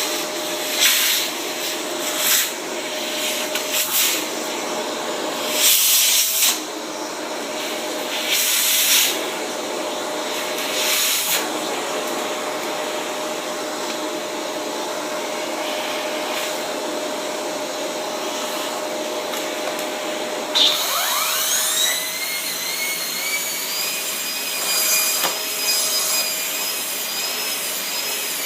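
Shark Rotator vacuum running with its turbo brush pushed back and forth over a dirty car floor mat, the noise surging with each stroke. About two-thirds through, a high whine rises quickly and then holds steady.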